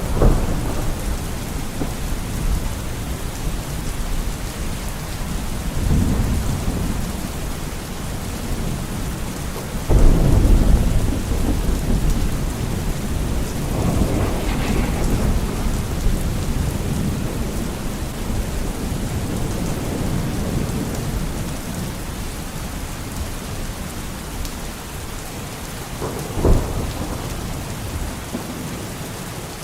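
Steady rain falling with rolls of thunder rumbling over it, several times; the loudest roll comes about a third of the way in, and a sharper, shorter one comes near the end.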